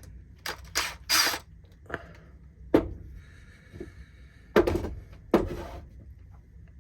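Hands working on a riding mower's carburetor during disassembly, making a string of sharp clicks and knocks from tools and small metal parts, about seven in all, the two loudest a little after halfway.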